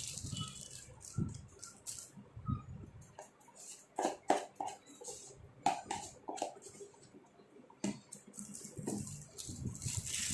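A few sharp knocks and clinks of kitchen utensils or metal ware being handled, several of them ringing briefly, over a faint hiss.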